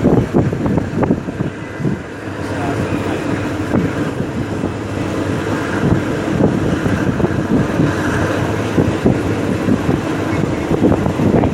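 Wind buffeting the microphone over the steady running noise of a moving vehicle, with uneven low gusts throughout.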